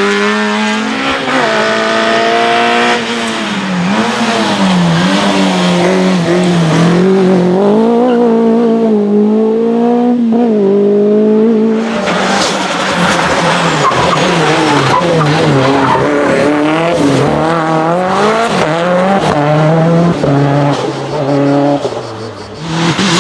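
Race car engine revving hard through slalom turns, its pitch climbing and dropping again and again as the driver accelerates, lifts and shifts. The sound changes sharply about halfway through.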